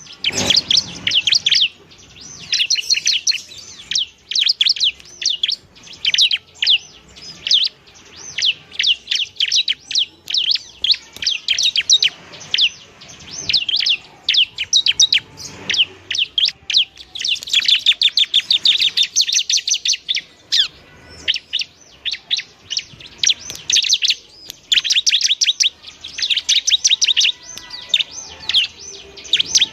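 Bar-winged prinia (ciblek) singing, with fast runs of high, rapid chirping notes. It sings in repeated bursts of one to three seconds with short pauses between them.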